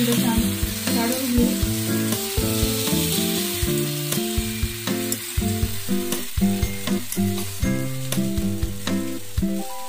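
Wheat-flour batter pancake sizzling in oil on a hot griddle, a steady frying hiss as oil is spooned over it. Background music with held, stepping notes plays throughout.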